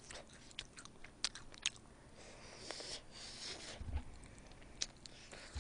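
Faint, close-miked chewing of soy sauce fried chicken, with scattered wet mouth clicks and smacks.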